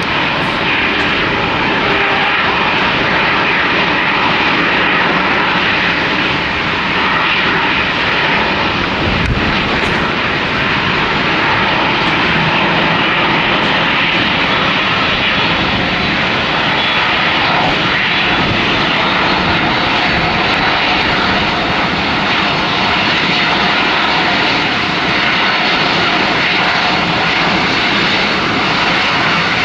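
Japan Airlines jet airliner's engines running at high power, a loud steady jet noise with a faint high fan whine.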